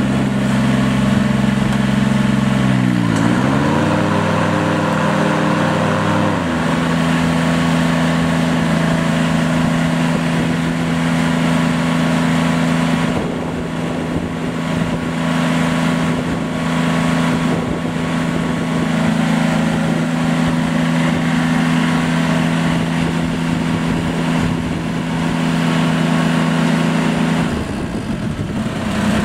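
Simplicity 4x4 garden tractor's engine running steadily, its pitch dipping briefly about three seconds in and then coming back up; the engine tone fades out near the end.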